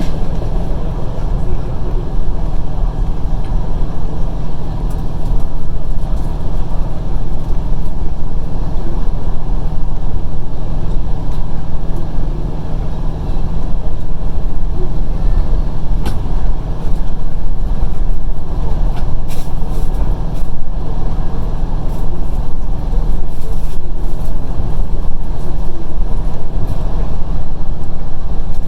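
Passenger train running along the line, heard from inside the carriage: a steady low rumble of wheels on rails, with a few sharp clicks in the second half.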